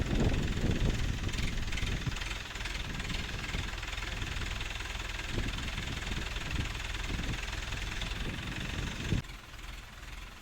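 Engine of a self-loading concrete mixer running steadily, louder for the first two seconds, with a few short knocks, then dropping away suddenly about nine seconds in.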